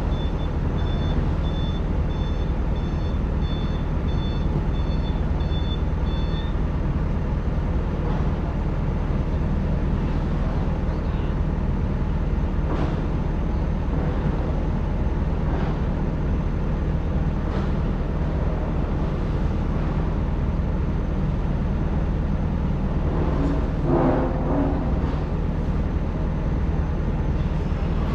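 Hydraulic excavator's diesel engine running steadily while digging, with an alarm beeping rapidly until about six seconds in, then a few scattered clanks.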